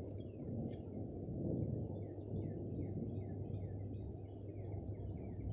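Birds chirping outdoors: a steady run of short, falling chirps, several a second, over a constant low rumbling noise.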